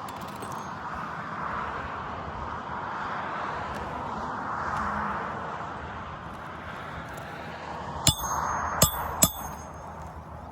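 Three sharp, ringing metal strikes of a hammer on a roofing nail, about eight seconds in, starting a new nail in an asphalt shingle. A steady outdoor hiss runs underneath.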